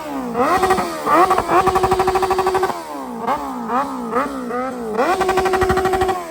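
A car engine being revved hard in quick blips, held against the rev limiter from about a second in to nearly three seconds and again from about five seconds in, where the pitch stays flat and the sound stutters rapidly as the limiter cuts in. Between the holds come several short, sharp rev blips that rise and fall.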